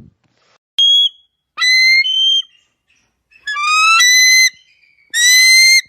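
Eagle calling: four high, whistled screams, each shorter than a second, several gliding slightly upward in pitch.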